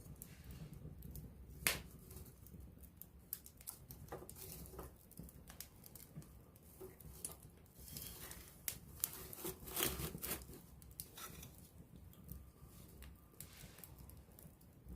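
Wood campfire crackling close up: irregular snaps and pops, with one sharp pop about two seconds in and a busier stretch of crackling from about eight to ten and a half seconds.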